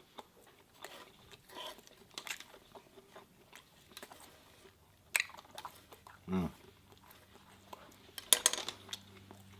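A person chewing and eating food close to the microphone, with wet mouth clicks and smacks. There is a short low hum of the voice about six seconds in, and a louder cluster of smacking sounds a little past eight seconds.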